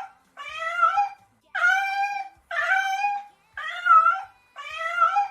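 A small animal crying over and over, about one high cry a second.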